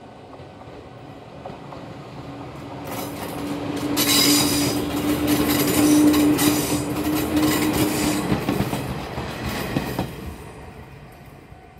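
A train passing close by. Its noise builds over the first few seconds, with a steady tone under it and wheels clacking over rail joints. It is loudest for about six seconds, then drops off sharply about ten seconds in as the train clears.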